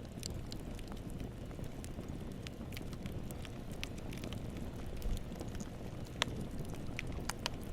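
Wood campfire burning: a steady low rumble with frequent sharp crackles and pops, a louder pop about five seconds in and another a second later.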